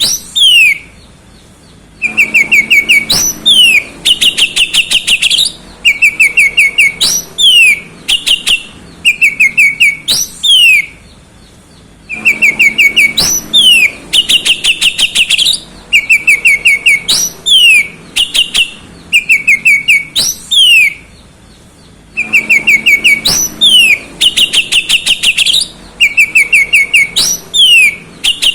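Oriental magpie-robin singing a loud, fast, varied song of rapid repeated notes and quick falling whistled slurs, in long runs broken by a short pause about every ten seconds.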